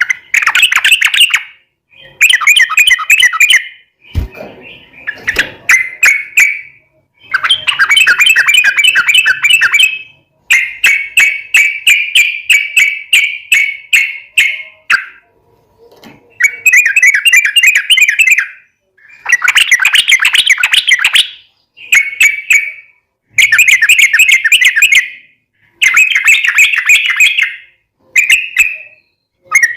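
Yellow-vented bulbul (trucuk) singing its long, rapid, chattering rolling song in about eleven loud phrases of one to five seconds each, with short pauses between them. This is the 'ropel panjang' song played as a lure to get other bulbuls to answer.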